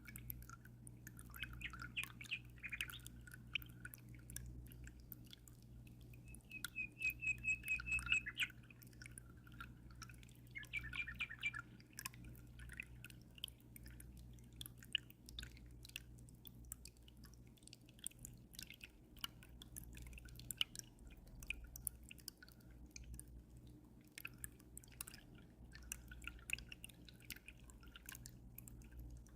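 Water dripping and trickling with many small quick drops, while small birds chirp, including a rapid trill about seven seconds in. A steady low hum runs underneath.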